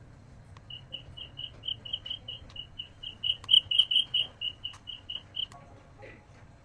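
White noise machine's speaker playing a nature-sound track of short, high chirps, about four a second, that swell to their loudest around the middle and stop about five and a half seconds in, with a few sharp clicks in between.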